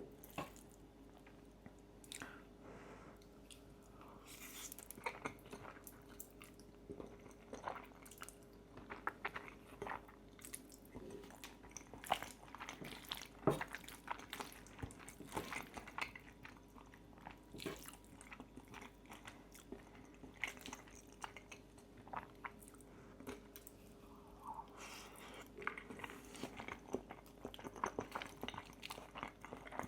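Close-miked eating of pistachio pesto fettuccine with crispy bacon: chewing and biting with frequent irregular crunches.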